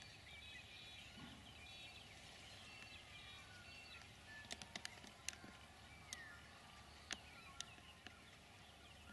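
Near silence with faint birdsong: stepping, warbling calls in the first few seconds and a falling whistle about six seconds in, with a handful of sharp ticks around the middle.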